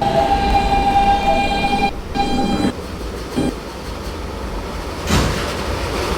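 Subway train horn sounding a long blast of about two seconds and then a short one. A brief rumble swells near the end.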